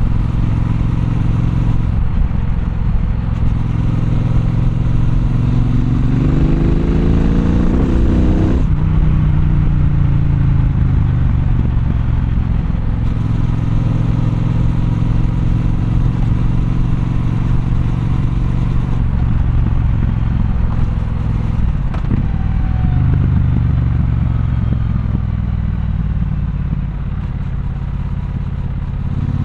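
Triumph Bonneville Bobber's 1200 cc parallel-twin engine on the move. It revs up through a gear for a few seconds, drops sharply about nine seconds in as the rider shifts or rolls off, and cruises fairly steadily. It eases off at about twenty seconds and then pulls up again.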